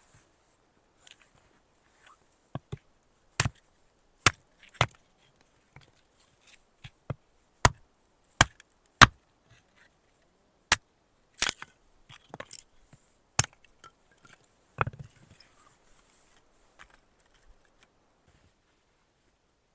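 An irregular series of sharp chopping knocks, about fifteen strikes of varying strength, with short pauses between them.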